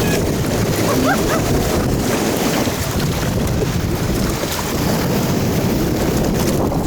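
Steady rushing and splashing water with wind buffeting the microphone, with a few faint distant voices.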